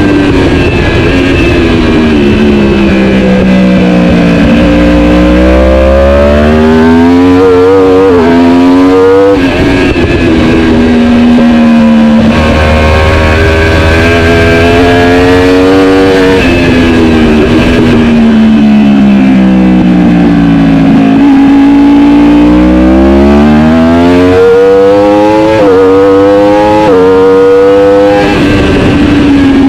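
A racing superbike's engine at full race pace, its revs sinking on the overrun and then climbing hard in quick steps as it is shifted up through the gears, over and over through a lap's corners.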